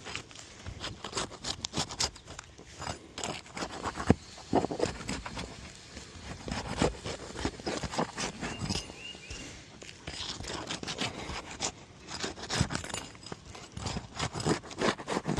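Asphalt roof shingles being unsealed and pried up with a hand pry tool: a run of irregular scrapes, cracks and crackles as the sealed shingles tear apart. The tearing is what the roofer takes as a sign that the shingles cannot be lifted without damage.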